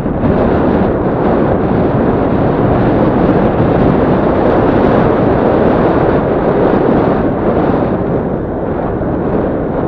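Yamaha Crypton-X underbone motorcycle's single-cylinder four-stroke engine running on the move on a dirt track, largely buried under loud wind rush on the microphone. Steady throughout, easing off slightly near the end.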